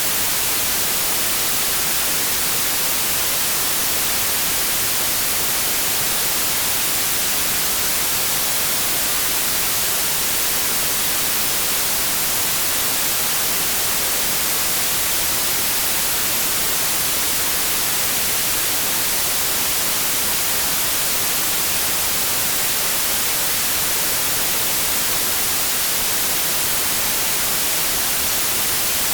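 Steady white noise: an even, unchanging hiss of static, brightest in the highs.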